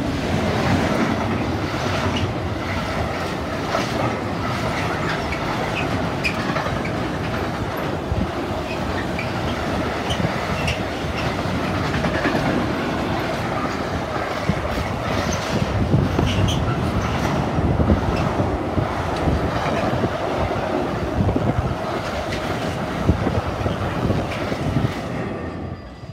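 A container freight train hauled by a Stadler Euro9000 locomotive passing close by: the locomotive goes by at the start, then a long run of container flat wagons, a steady heavy rolling noise with many sharp clanks and brief wheel squeals. The noise drops away suddenly near the end as the last wagon passes.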